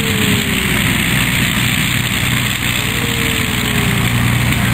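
Yak-52 trainer's nine-cylinder radial engine running in flight, a steady drone with a fainter tone that slides down in pitch twice.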